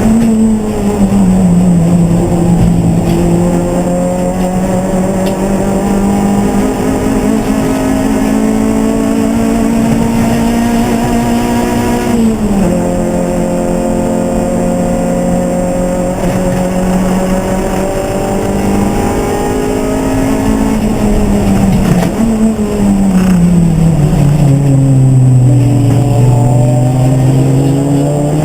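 A single race car engine runs continuously at racing speed, its note gliding up and down. The pitch drops suddenly about twelve seconds in, then falls slowly in the later part before climbing again.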